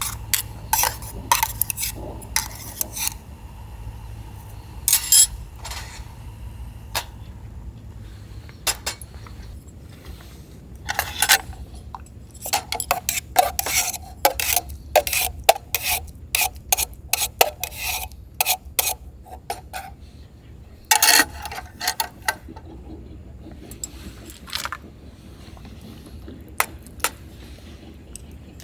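Metal camp cookware and utensils clinking and scraping as they are handled, in scattered knocks with a busy run of clinks in the middle.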